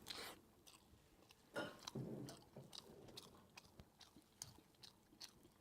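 Faint chewing of sticky-rice zongzi: soft, scattered mouth clicks, a little louder for about half a second near a second and a half in.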